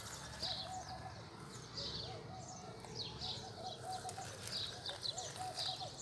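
Birds calling: one repeats a short wavering, trilled phrase over and over, while another gives high, thin chirps over it.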